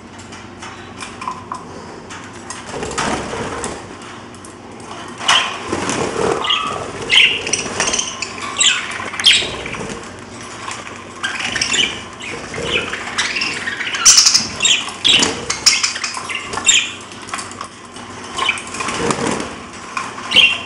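Pet parrots chirping and calling in short, irregular bursts, with some fluttering and rustling mixed in.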